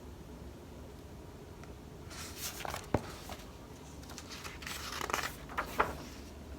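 Rustling of paper pages in a picture book being handled and turned, with a sharp click about three seconds in and more rustling near the end.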